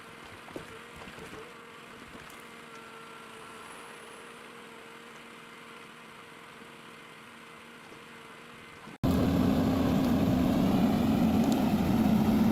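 Komatsu forwarder's diesel engine running at a steady pitch, faint at first with a few light knocks near the start. About nine seconds in, the engine sound suddenly becomes much louder and keeps running steadily.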